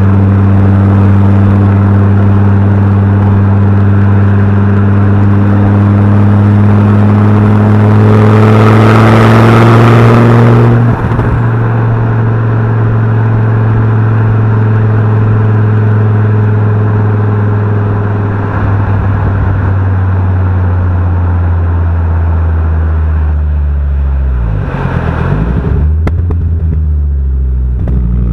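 Fiat Coupe 20V Turbo's inline five-cylinder turbo engine and exhaust pulling under way. The engine note climbs steadily with a rushing hiss until about eleven seconds in, when the hiss cuts off sharply and the note drops back. It then holds a steady drone, and near the end dips and climbs again.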